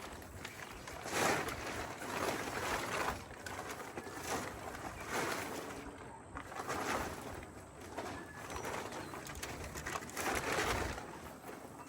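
Irregular rustling and scraping, about one noisy burst every second or so, as tarps, blankets and garden debris are handled and moved.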